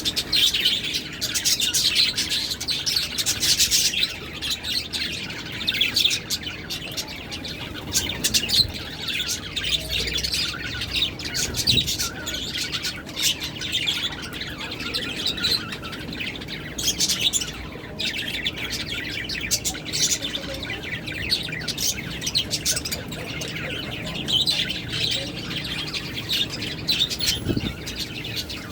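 Lovebirds chirping continually, many short, sharp calls overlapping.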